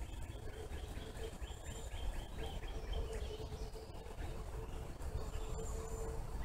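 A bird singing a quick run of repeated notes, about five a second, for the first three seconds. Underneath are a faint steady hum and a low outdoor rumble.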